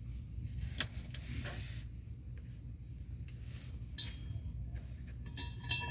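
A steady high insect trill over a low rumble, with a faint click about a second in and a few light metallic clinks near the end as exhaust parts are handled.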